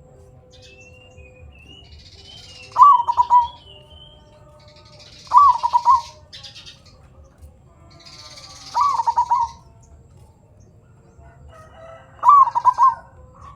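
Zebra dove (perkutut) cooing: four short calls of rapid coos, each under a second, about three seconds apart. Faint higher chirps of other birds sound between them.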